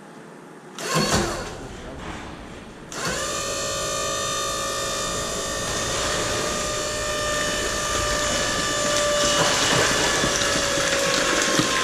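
A clunk about a second in, then a PET mini baler's motor starts about three seconds in and runs with a steady whine as the ram cycles down on the plastic, its pitch sagging slowly near the end as the load builds.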